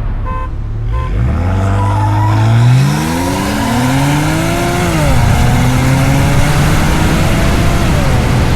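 Car engine making a full-throttle acceleration pull: the revs climb hard from about a second in, drop at an upshift about three seconds in, climb again, drop at a second upshift about five seconds in, then run on at a steady, slowly rising pitch.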